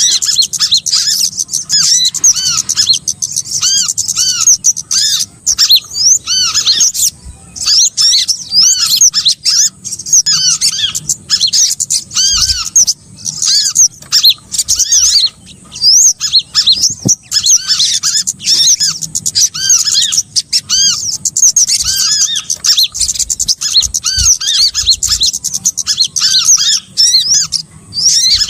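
Bird-lure recording of small songbirds chirping: a dense, continuous chorus of many short, arched, high chirps from several birds overlapping, with the same rising-and-falling note shapes repeated over and over.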